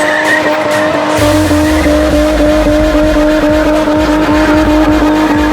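Car doing a burnout: engine held at high revs and tyres squealing as they spin. A deep, steady rumble comes in about a second in.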